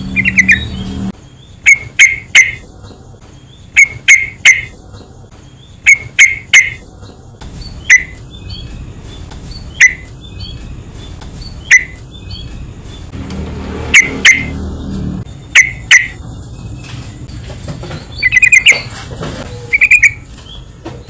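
Yellow-vented bulbul (trucukan) calling: loud, short, bright notes in clusters of two or three about every two seconds, with bubbly trilled phrases near the start and near the end.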